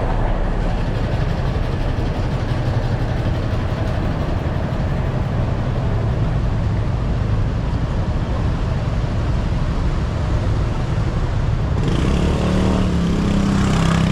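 Steady road traffic rumble. Near the end, a louder pitched engine-like sound swells in, like a vehicle passing close by.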